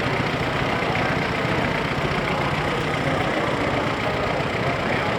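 Car engine running steadily and roughly, a dense rumbling noise with no change in pace.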